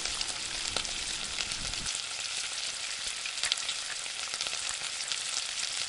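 Thick tomato-onion masala gravy sizzling steadily in a non-stick pan over a gas flame, crackling lightly as it is fried down. A wooden spatula stirs through it for about the first two seconds.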